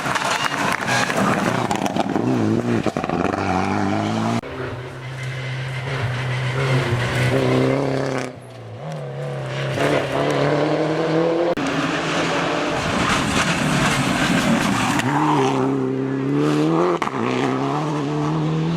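Rally car engine at full throttle, climbing in pitch and dropping at each gear change, with a brief lift off the throttle about eight seconds in.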